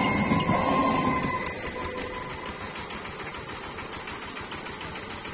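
The last coaches of an EMU local train rolling past, wheels thumping over the rail joints with a steady whine above; about a second in the sound drops away as the train draws off, leaving a lower steady rumble.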